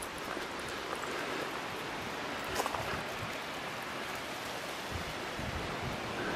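Stream water flowing with a steady rushing hiss.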